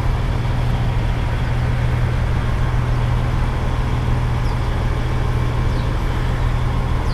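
Steady truck-stop engine and highway traffic noise, with a constant low hum underneath.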